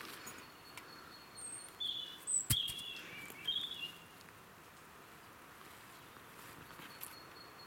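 Quiet woodland ambience with bird calls: a few short high chirps and a warbling, falling phrase over about two seconds. A single sharp click comes about two and a half seconds in, and a faint thin steady high tone sounds at the start and again near the end.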